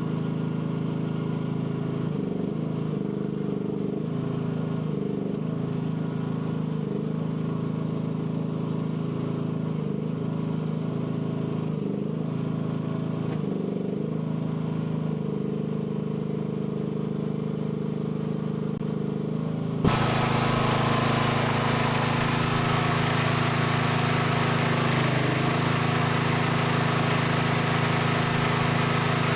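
AGT L12 mini excavator engine running steadily, its pitch dipping briefly again and again as the hydraulics are worked. About two-thirds of the way through the sound changes suddenly, becoming louder and hissier while the engine keeps running.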